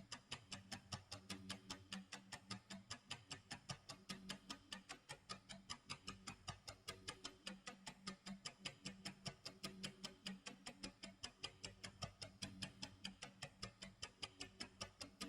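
Clock tick-tock sound effect: a faint, steady run of quick ticks, about four a second.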